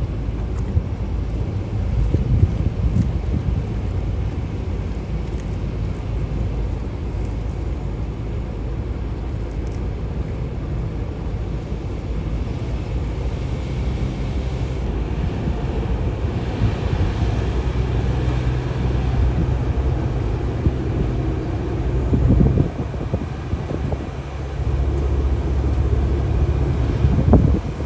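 River ferry's engine running steadily, with wind noise on the microphone; two brief louder bumps near the end.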